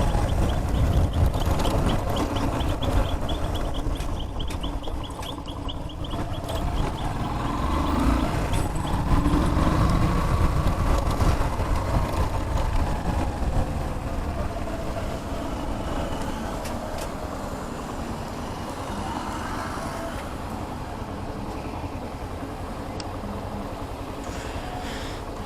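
Motorcycle engine running under way over a heavy steady rumble, its pitch rising and falling between about 8 and 12 seconds in. A fast run of light ticks sounds over the first few seconds.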